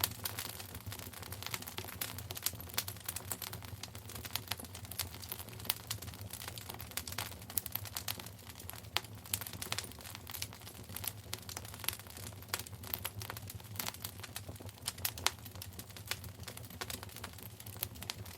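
Wood fire burning in a fireplace: dense, irregular crackling and popping over a steady low hum.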